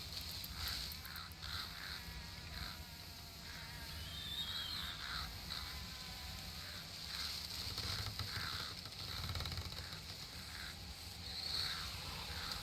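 Birds chirping and calling in short, repeated phrases over a steady low background rumble.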